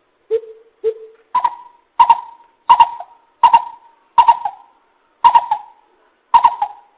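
Coucal (bìm bịp) giving its hooting call: a series of about nine deep, echoing hoots, the first two lower, the rest stepping up in pitch, spaced about half a second to a second apart. A lure call for drawing in wild coucals.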